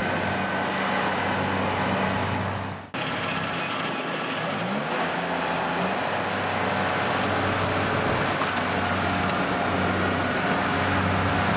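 Diesel engine of a farm machine running steadily. It breaks off for an instant about three seconds in, then its pitch rises briefly before settling back to a steady run.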